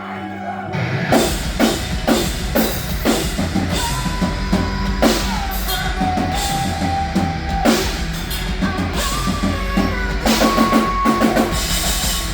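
Live rock band playing loudly: a drum kit keeps a steady beat with bass drum and snare over a low bass line, while a lead instrument holds long sustained notes.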